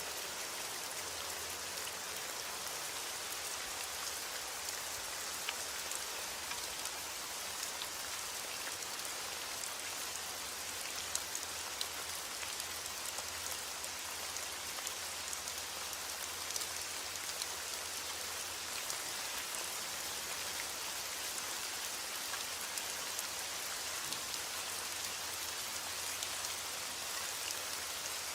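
Steady rain: a continuous even hiss of rainfall with scattered sharp taps of single drops hitting a surface.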